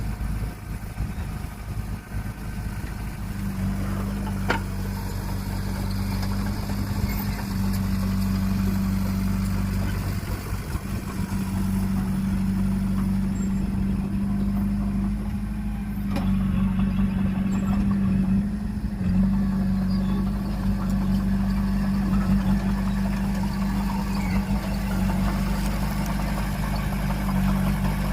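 Heavy earthmoving machine's diesel engine running steadily with a deep, even hum, and a sharp knock about four and a half seconds in.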